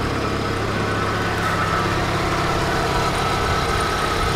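Engine of a four-wheel-drive SUV running steadily at low revs.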